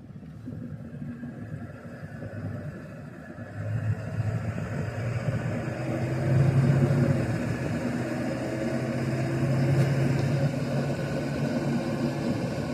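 A motor vehicle engine running. It grows louder over the first four seconds, then holds a steady low hum.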